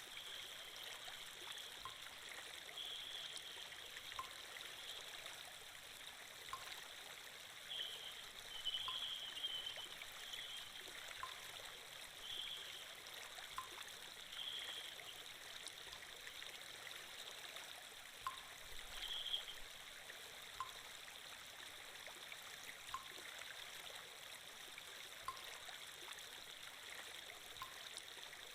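Flowing-water sound effect: a steady stream trickling, with faint ticks every second or two.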